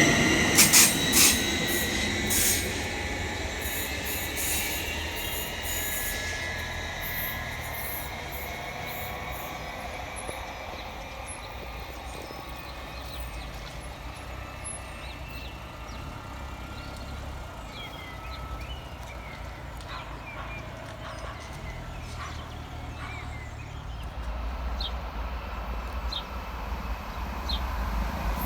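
A train passing and running away along the line: wheel clicks over the rail joints and a high squeal at first, then the sound fades steadily with slowly falling tones. A low rumble builds near the end.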